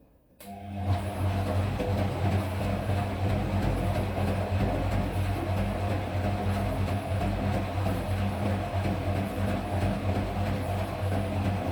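Front-load washing machine running its spin cycle, starting suddenly about half a second in: a loud, steady rumble with rattling, the vibration and knocking during spin that the machine is being repaired for.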